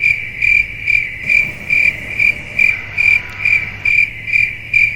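Crickets chirping: one high, steady trill that swells and fades about twice a second, over a low hum. It starts and stops abruptly, like an edited-in cricket sound effect for an awkward silence.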